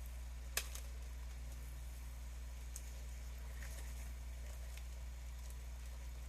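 Soft handling noises from planting seeds in small soil pots: one sharp click about half a second in, then a few faint ticks and rustles, over a steady low hum.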